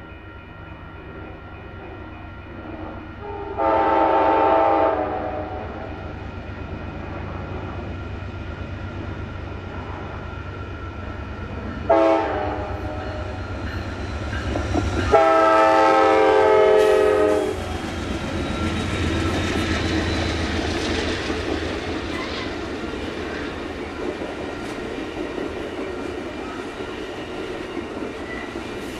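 Locomotive passing with its diesel engine running, sounding its multi-tone air horn: a blast of about a second and a half, a short toot, then a longer blast. The rumble of rail cars rolling by follows.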